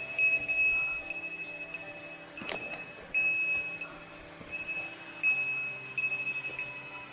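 A small metal bell ringing over and over with a clear high ring, struck again every second or two and fading between strikes, over a faint steady low hum of tones.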